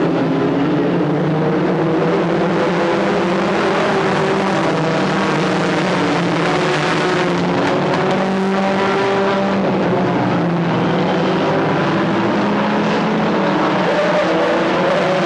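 Several stock car engines running at once as the cars race around the track, their engine notes rising and falling over one another.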